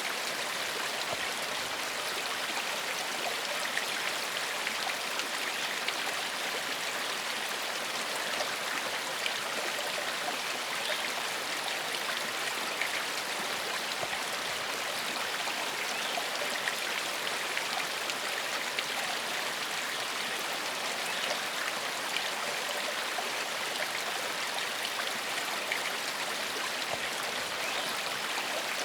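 Gentle forest stream flowing steadily over stones: an even, unbroken rush of water with fine splashing detail and no other sound standing out.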